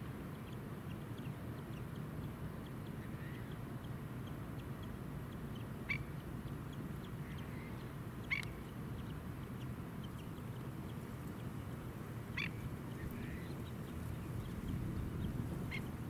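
A bird calling four times, short sharp calls a few seconds apart, over a steady low background rumble.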